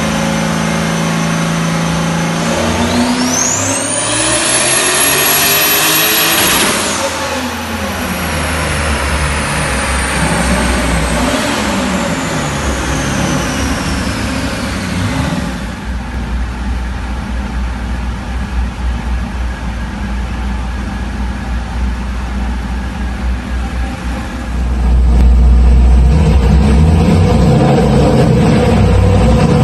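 Turbocharged LS1 V8 making a full-throttle dyno pull: the engine and a high turbo whine climb steeply in pitch for a few seconds, then wind down slowly as it lets off. Near the end a louder, deep low rumble comes in.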